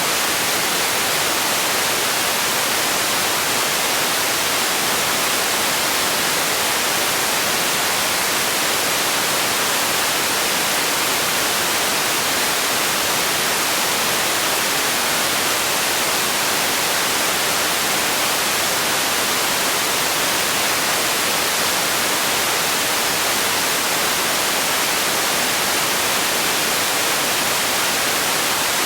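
Steady synthetic sleep noise: a constant, even hiss, strongest in the high end and thin in the bass, with no change in level.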